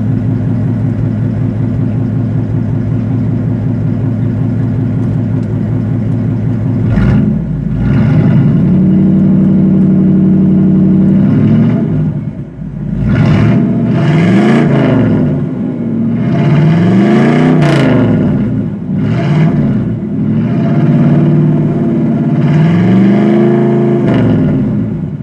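Chevrolet Camaro RS's 305 small-block V8 exhaust idling steadily, then revved up and held briefly about seven seconds in, followed by several quick revs that rise and fall back toward idle.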